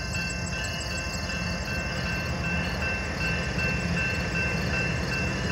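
Low steady rumble of a train approaching at a crawl, with a faint steady high tone ringing over it.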